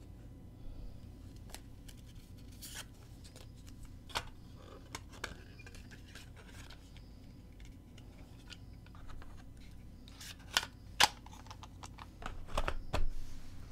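Scattered light clicks and rustles of a cassette case, its paper insert and box-set packaging being handled, with a louder pair of clicks about ten seconds in, over a faint low hum.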